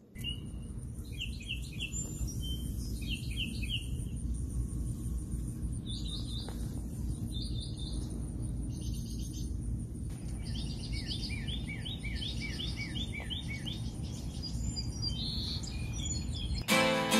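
Small birds chirping in short runs of quick repeated descending notes, one longer run of about eight notes in the middle, over a steady low outdoor rumble. Guitar music cuts in just before the end.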